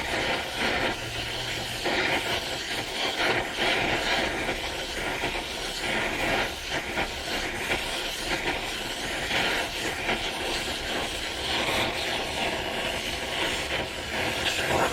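Gas torch flame hissing steadily, with a surge every second or two, as it heats steel T-nuts for case hardening.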